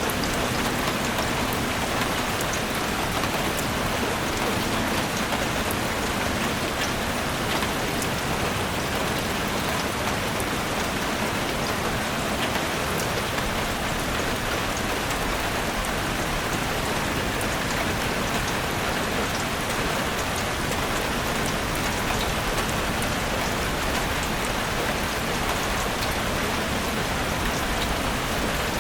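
Steady rain falling in a forest, a dense patter of individual drops striking over an even hiss, at a constant level throughout.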